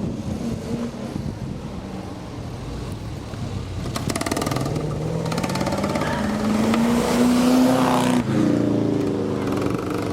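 Ford Cortina with a V8 swapped in for its 1600 engine, accelerating hard. The engine note climbs for several seconds and drops at a gear change just after eight seconds, then climbs again in the next gear.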